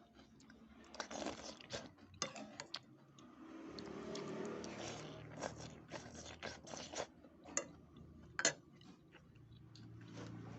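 Close-up eating sounds: chewing and biting on bakso meatballs and rice, with many small irregular clicks and two sharper clicks in the second half.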